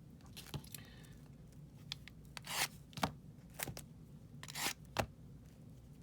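Sealed trading-card packs being handled and cut open with scissors: a handful of short, sharp snips and crinkles of the wrappers.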